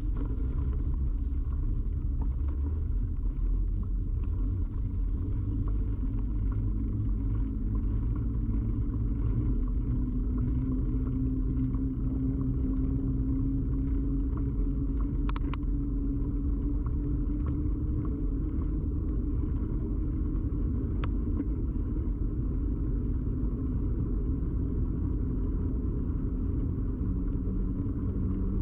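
Steady low rumble of a bicycle ride picked up by a camera clamped to the bike, the road and tyre vibration carried through the frame. There are a couple of sharp clicks about halfway through and a faint, slowly rising tone in the middle.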